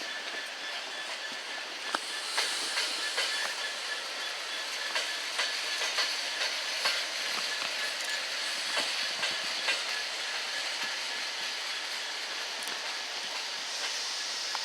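Train running along the track: a steady hiss with irregular clicks of wheels over rail joints, the clicks starting about two seconds in.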